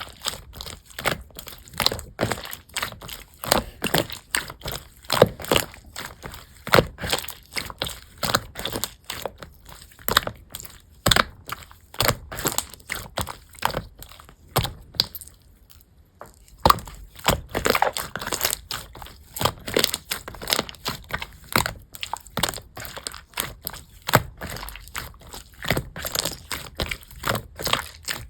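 Slime being squeezed and pressed by hand, giving a dense run of irregular popping and crackling clicks, with a short lull a little past halfway.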